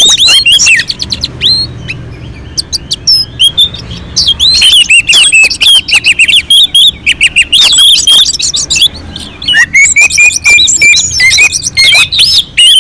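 Orange-headed thrush (anis merah) singing a fast, varied song of whistles, trills and chirps. It eases off briefly about two seconds in, then resumes in full.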